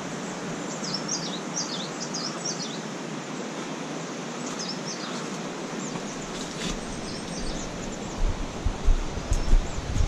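Small birds chirping in short, quickly rising and falling calls over a steady rushing background noise. Low thumps come in near the end.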